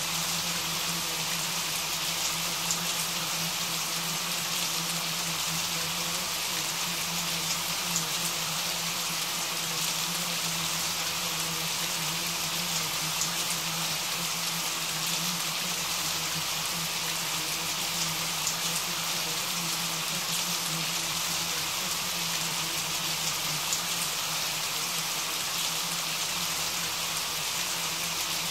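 Steady rain falling: an even hiss with scattered small drop ticks, and a low steady hum underneath.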